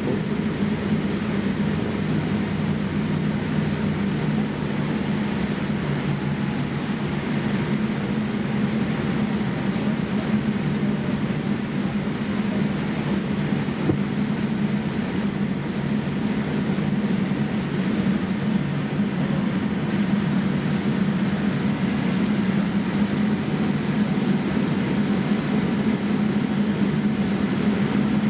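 Steady cabin noise inside a Boeing 787-8 airliner: a constant hum from the engines with the rush of air around it, unchanging throughout.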